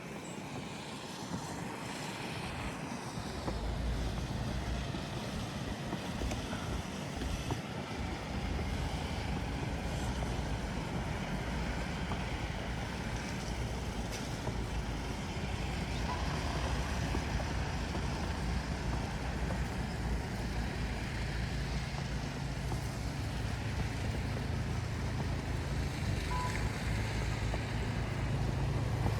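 City traffic noise, with a motor vehicle's engine running close by: a steady low rumble that comes in about four seconds in and grows somewhat louder toward the end.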